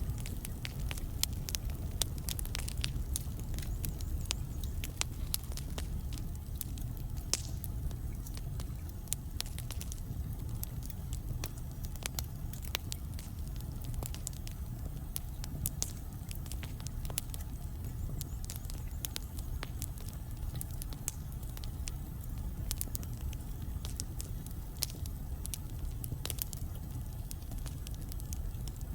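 Wood fire burning in a fireplace: a steady low rumble of flame with frequent sharp, irregular crackles and pops from the burning logs.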